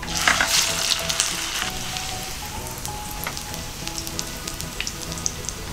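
Shrimp-paste toast (ebi pan) shallow-frying in hot oil in a frying pan: the oil sizzles and crackles, most strongly just after the bread goes in, then settles into a steady sizzle.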